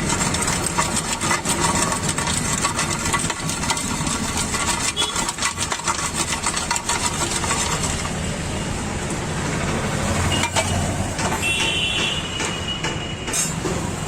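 Busy street-side bustle at a food stall: vehicle engines running nearby and many small clicks and clinks, like plates and utensils being handled, with a brief high tone about twelve seconds in.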